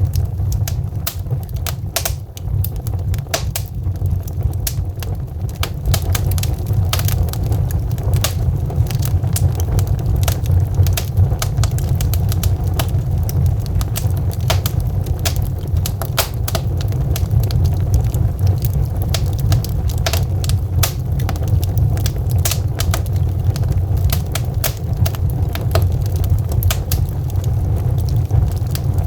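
Wood logs burning in a fireplace: frequent irregular sharp crackles and pops over a steady low noise from the burning fire.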